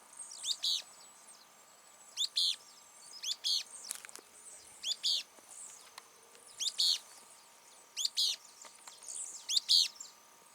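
A graveteiro (thornbird) calling over and over: a short, sharp double note repeated about every second and a half, seven times.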